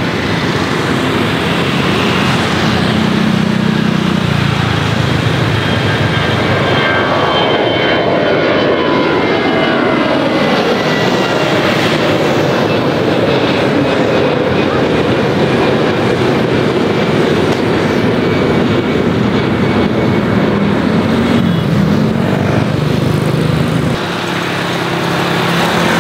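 Jet engines of an Airbus A320 airliner passing close by, a loud steady roar with a whine that falls in pitch as the aircraft goes past.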